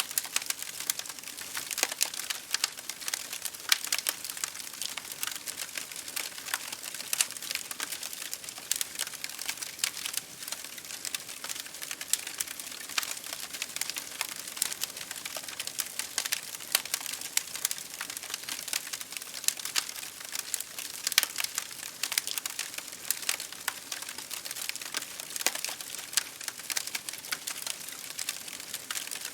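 Wood fire crackling in a fireplace, mixed with rain pattering on a window pane: a dense, irregular run of small pops and ticks over a steady hiss.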